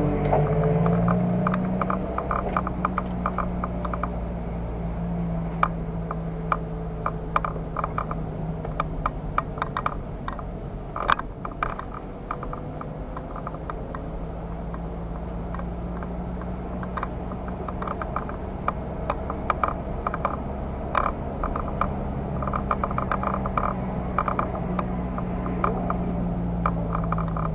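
Car engine running steadily at low revs as the car rolls slowly, heard from inside the cabin, with many light irregular clicks and rattles over it and one sharper click about 11 seconds in.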